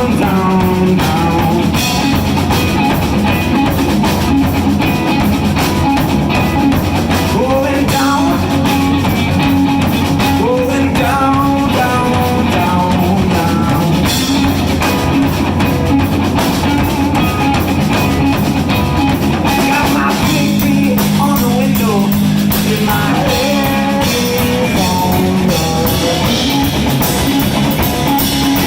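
A blues band playing live: a full band with a steady beat under melodic lines that bend up and down in pitch.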